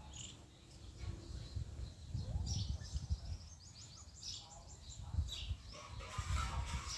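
Small birds chirping in short, quick clusters of high notes over a steady low rumble.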